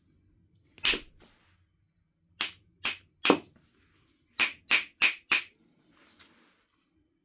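Knapping strikes on a Knife River flint biface, sharp clicking impacts: one, then three, then a quick run of four evenly spaced, and a faint last tap.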